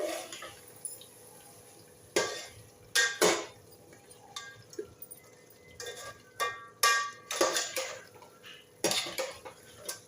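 A metal utensil clanking and scraping against a cooking pot while the chicken is stirred: about ten irregular knocks, some of them ringing briefly.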